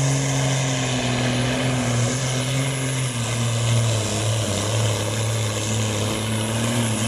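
Engine of a Supersport-class pulling truck running at high, steady revs under heavy load while pulling the weight sled. The pitch sags a little about halfway through and then holds.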